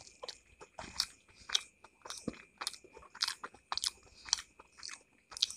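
Close-up chewing of a steamed chicken momo, heard as a run of short, irregular mouth clicks and smacks, about two or three a second.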